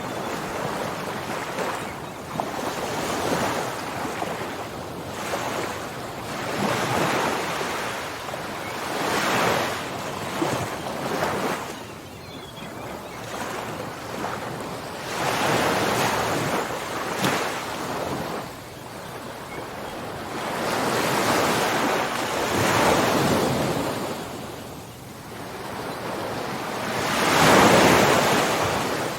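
Ocean waves breaking and washing on the shore, the surf swelling and easing every few seconds, with the biggest wave near the end.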